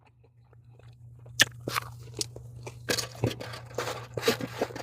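A person chewing crunchy food close to the microphone. Sharp, scattered crunches start about a second and a half in and get denser and louder from about three seconds on.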